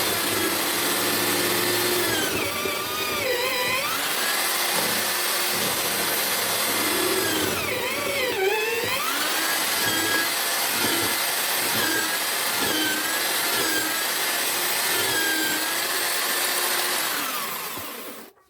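Homemade drill-powered chisel mortiser running, its motor whine sagging in pitch and recovering as the bit is fed into the wood, twice deeply and several times lightly. It stops abruptly near the end.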